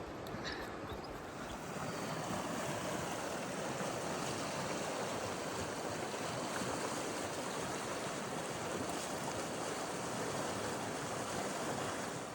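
Rushing creek water: a steady rush that swells a little about two seconds in and holds even.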